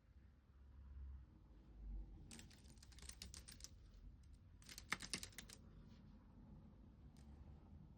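Typing on a computer keyboard: two short runs of quick keystrokes, one about two seconds in and another near the middle, with a soft low thud just before the first run.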